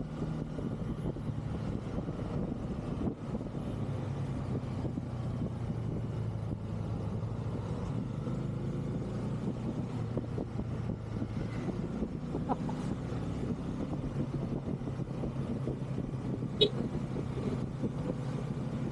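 Bajaj Pulsar N250's single-cylinder engine running steadily while riding, with a slight drop in engine speed a few seconds in. A short sharp click comes near the end.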